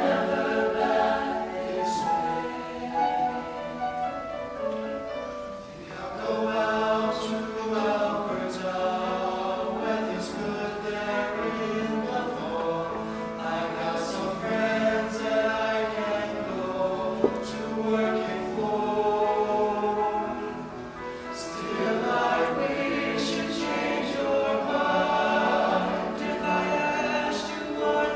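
A choir singing, many voices together, with short breaks between phrases about six seconds in and again about twenty-one seconds in.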